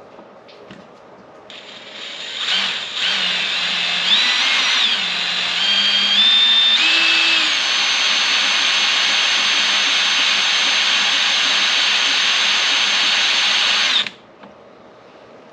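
Power drill running a hole saw into the Jeep's body panel, with its center pilot bit cutting poorly. The drill speeds up over the first few seconds with a shifting whine, runs steadily, then stops abruptly near the end.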